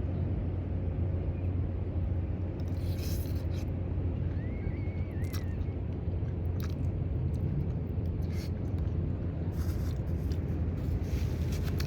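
A person chewing a last mouthful of kimchi and bacon spaghetti, with scattered short wet mouth clicks, over a steady low rumble.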